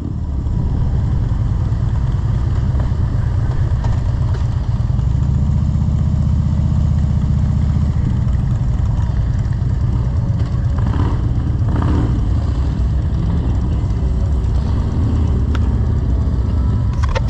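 Motorcycle engine running steadily under way, its low note growing stronger for a few seconds in the first half.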